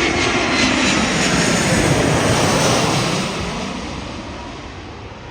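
Jet airliner passing low overhead: a loud engine roar whose tones slide down in pitch as it goes by, then fades away from about three seconds in.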